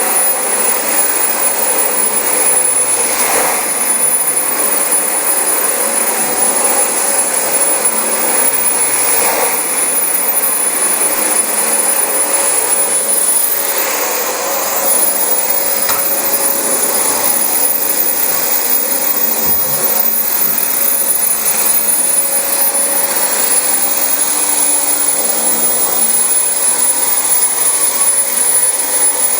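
Dyson DC25 bagless upright vacuum cleaner running steadily on carpet, its motor noise carrying a high whine.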